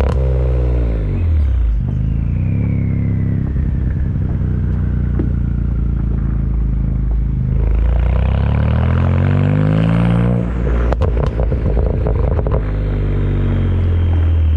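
BMW 335i's N54 twin-turbo straight-six through a dual 3-inch MG Motorsport exhaust: the revs drop and the engine runs low, then it revs up hard for about three seconds with a high turbo whine rising alongside. A string of sharp crackles follows as it comes off the throttle, and it settles back to a low run.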